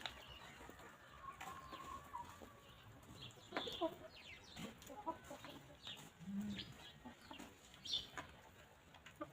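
Hens clucking in short calls, with scattered light taps throughout.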